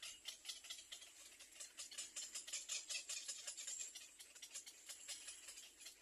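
Nestling birds begging: a fast, steady run of thin, high-pitched cheeps and ticks, fairly faint.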